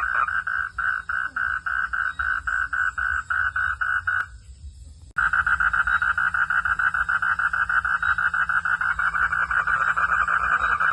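A chorus of frogs calling in a steady pulsing rhythm, about three to four pulses a second. A little over four seconds in it breaks off into near silence for about a second, then starts again suddenly, faster and denser, over a low rumble.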